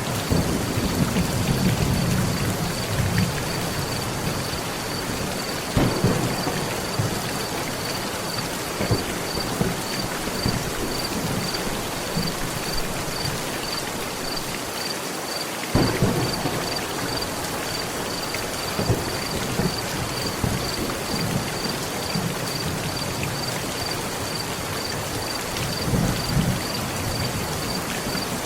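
Steady heavy rain on a metal roof with rolls of thunder, the strongest swelling at the start, about six seconds in, about sixteen seconds in and near the end. A faint high pulsing tone repeats about twice a second.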